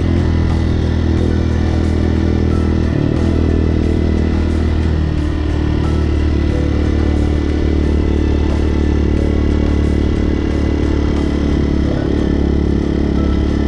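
Hawk 250 motorcycle's single-cylinder engine running steadily under way. Its note dips briefly about five seconds in, then picks back up.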